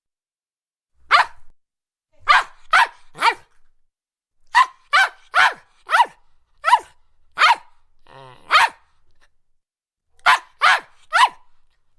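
A poodle barking in short, sharp, high yaps, about fourteen in all, coming in quick runs of one, three, six, one and three with short pauses between them.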